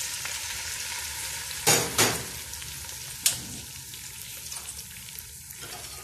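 Fried dried-chilli and onion paste sizzling in a wok, a splash of water just poured in from a bowl. Three sharp knocks come about two and three seconds in.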